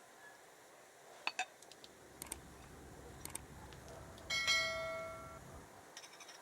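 Dishes and utensils clinking: a few light taps, then about four seconds in a dish is struck and rings with a clear tone that fades over about a second.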